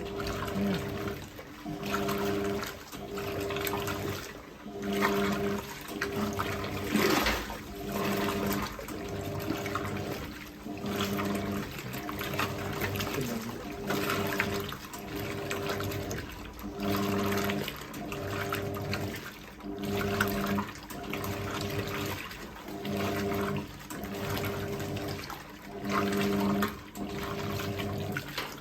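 Hoover 1400 top-loader washing machine agitating a load. The motor's hum starts and stops about every second and a half as the PowerPulse agitator strokes back and forth, with water sloshing throughout.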